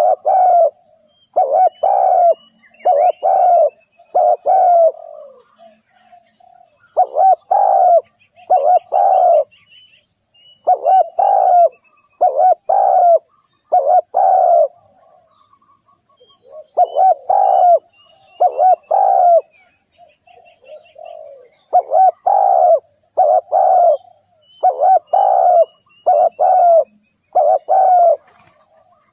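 Spotted dove cooing over and over in phrases of two to four coos, with short pauses between phrases. Faint chirps and trills of smaller birds sound higher up.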